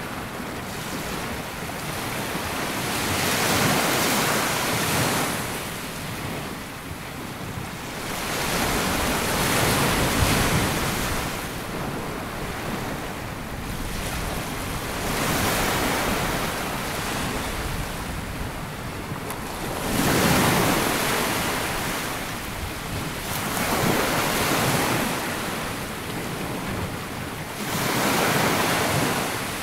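Sea waves breaking and washing up a sandy beach, the surf swelling and fading about every four seconds.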